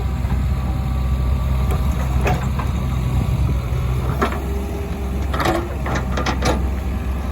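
Heavy diesel machinery running steadily at work, with a few sharp knocks about two and four seconds in and a quick cluster of them near the end.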